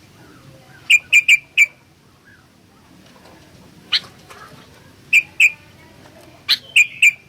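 Kutilang bulbul calling: short, bright whistled notes in quick clusters, a run of four about a second in, a single sharp note near the middle, then two and three more notes near the end.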